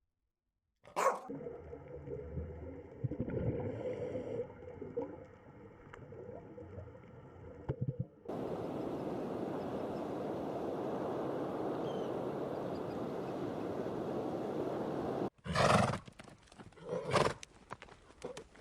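Short animal clips run one after another: mixed animal sounds, then several seconds of a steady rushing noise, then a horse neighing twice near the end.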